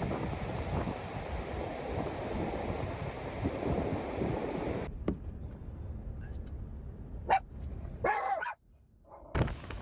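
Strong wind buffeting the microphone with a heavy rumble. About halfway through it drops away, leaving a few sharp knocks and a short pitched cry. The wind rushes back in near the end after a brief moment of near silence.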